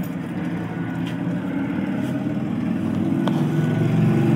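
A motor vehicle engine running close by, a steady low drone that grows louder toward the end, with a light click about three seconds in.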